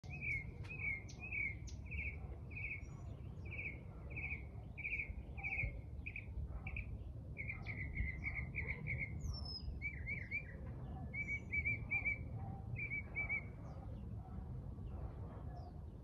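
A bird singing a series of short, repeated chirps, about one and a half a second at first, then a quicker run and a few varied notes before it stops about three-quarters of the way through. Fainter, higher calls from other birds come and go over a low steady rumble.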